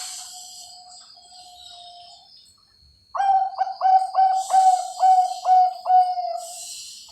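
Bangkok-line zebra dove (perkutut) cooing: a faint drawn-out note in the first two seconds, then about three seconds in a quick run of about nine coos that ends near the end. Faint high chirping of other birds sits behind it.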